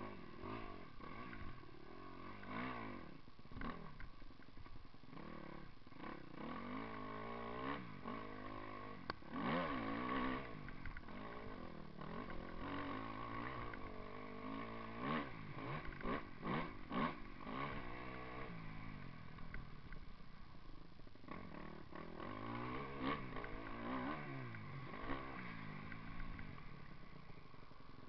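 Motocross bike engine being ridden, revving up and falling back again and again, with knocks and clattering here and there.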